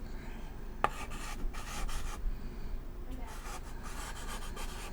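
Chalk writing on a chalkboard: irregular scratchy strokes, with a sharp tap as the chalk meets the board about a second in.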